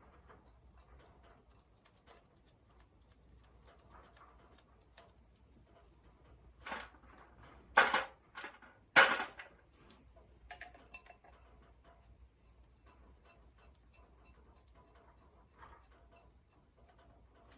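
Small metal clicks and clinks of bolts and the clutch cover being handled and fitted to the engine, with a cluster of louder sharp clinks around the middle.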